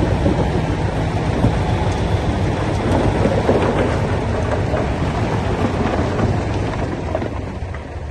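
Crawler bulldozer's diesel engine running steadily under load, with a dense crackling rumble of the tracks and pushed soil.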